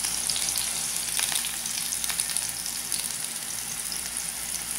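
Eggplant rings frying in a little hot oil in a frying pan: a steady sizzle with scattered small crackles.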